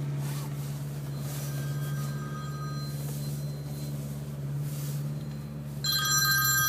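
Opel Corsa D OPC's turbocharged 1.6-litre four-cylinder engine, heard from inside the cabin, running with a steady drone while the car drives. Near the end a phone ringtone starts up.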